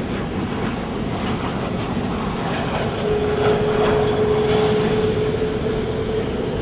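Jet airliner making a low pass: a steady engine rush that swells about three seconds in, with a steady tone running over it for a few seconds.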